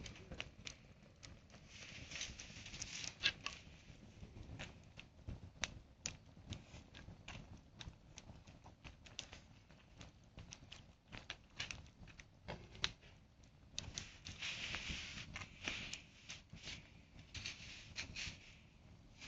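Campfire crackling, with many small irregular pops and snaps and patches of soft hiss.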